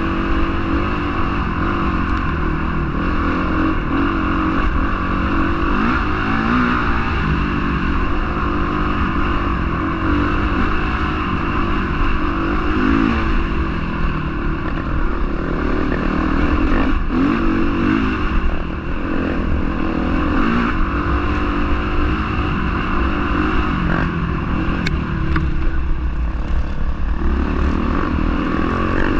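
Honda CRF450R motocross bike's single-cylinder four-stroke engine running hard, its pitch rising and falling again and again as the throttle is opened and closed.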